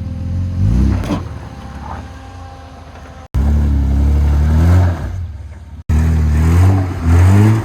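Muffler-deleted off-road 4x4 engine revving in repeated surges, rising and falling in pitch as the truck climbs over an obstacle that is hanging it up on its differential. The sound cuts off abruptly twice, about three and six seconds in.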